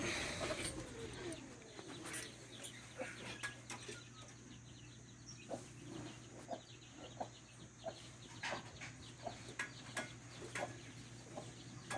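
Chickens clucking in a run of short, separate calls, with the tail of a gliding call fading out in the first second.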